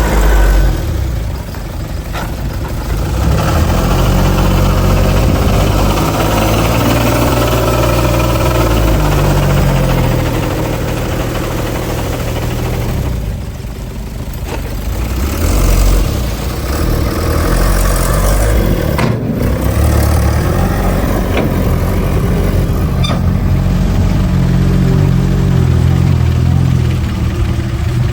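Heavy diesel engine of a bulldozer running under changing load, its pitch rising and falling as it works, with a quieter stretch about halfway through.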